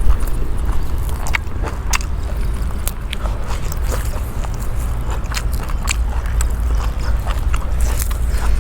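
A person chewing and biting food close to the microphone, with scattered sharp crunches, over a steady low rumble.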